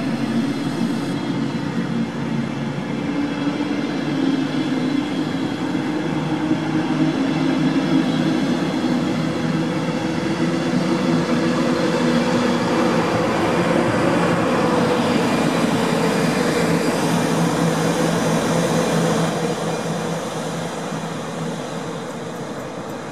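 DB class 111 electric locomotive and its double-deck regional coaches running past: steady rolling noise with a low electric hum, building through the middle and fading away near the end.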